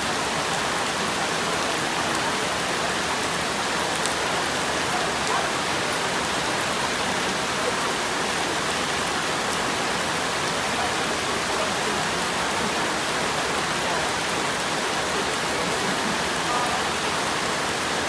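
Steady, even hiss of water, like rain falling or water rushing, with no change in level.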